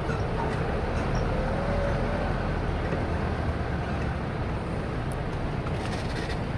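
A motor vehicle moving on a road: steady road and engine noise, with a faint engine hum that wavers and rises a little in pitch about two seconds in.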